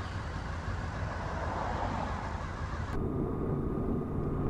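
Motorcycle on the move: engine running under a rush of wind and road noise. About three seconds in, the sound changes abruptly, with the wind hiss dropping away and a steadier engine hum remaining.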